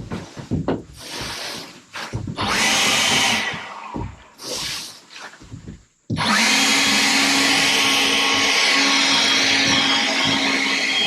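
A few irregular knocks and scrapes, then about six seconds in a motor-driven tool starts suddenly and runs steadily with a constant hum.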